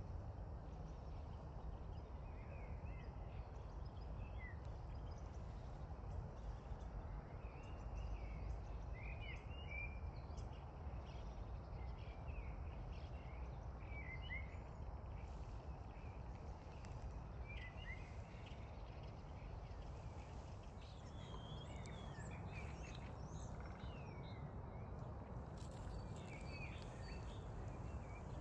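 Small birds chirping and calling on and off, short quick rising and falling notes, over a steady low outdoor rumble.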